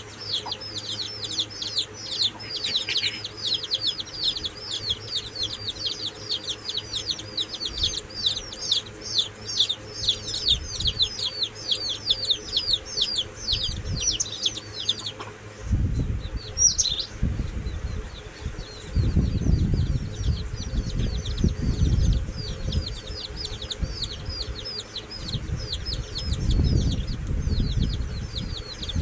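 Chicks peeping: a fast, steady string of short high falling peeps, about four a second, that stops for a few seconds midway and then resumes. In the second half, bursts of low rustling and thumping come in, like a hen scuffling or flapping.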